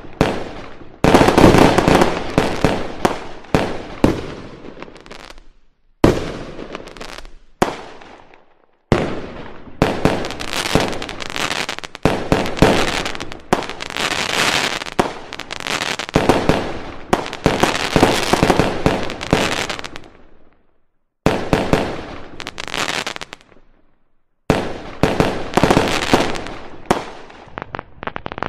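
Aerial fireworks display: shells bursting in rapid volleys of sharp bangs, each fading out. There are short pauses about a second in, around 6 and 8 seconds, and near 21 and 24 seconds.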